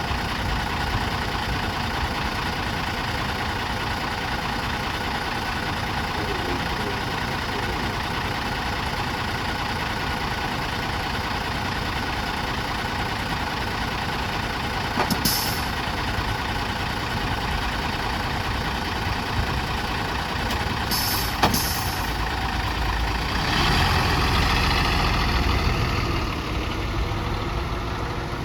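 City bus engine running steadily, with short sharp air hisses from the air brakes about halfway through and twice more about three quarters of the way in. The engine grows louder for a couple of seconds near the end.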